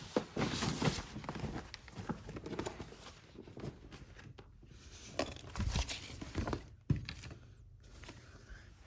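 Paper rustling and crinkling as old papers are handled, with scattered light clicks and a few soft knocks.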